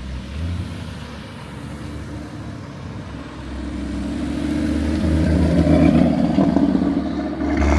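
A car's engine building up as the car drives closer and past, loudest about two-thirds of the way in and rising again near the end; a pretty raw sound.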